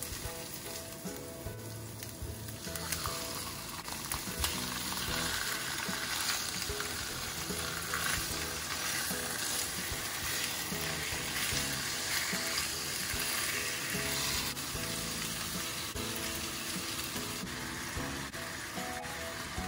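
Raw chicken pieces sizzling in hot oil in a non-stick wok while they are stirred. The frying gets much louder about three seconds in as more meat goes into the pan. Soft background music plays underneath.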